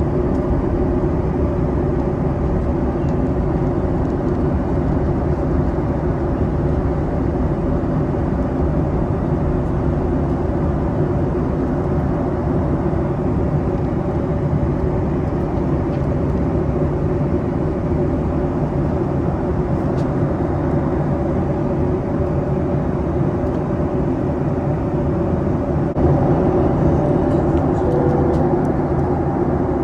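Boeing 737 MAX cabin noise in flight: a steady rush of air with the hum of its CFM LEAP-1B engines and a few low steady tones. It gets a little louder near the end.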